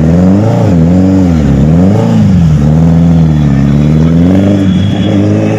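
Superbike engine revving, its pitch rising and falling quickly three times, then climbing more slowly and dropping back near the end.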